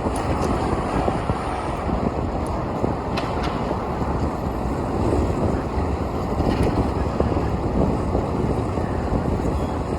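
Wind rumbling on the microphone of a camera riding on a moving bicycle, over the steady noise of city street traffic, with a few faint high ticks.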